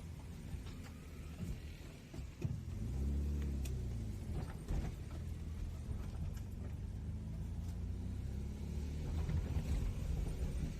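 Road vehicle engine running with road rumble. Its pitch rises and falls a few seconds in and again later, as with revving or a vehicle passing.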